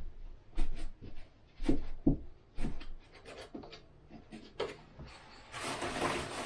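Hands working at a window frame: a run of irregular knocks and clicks, then a hiss lasting about a second near the end.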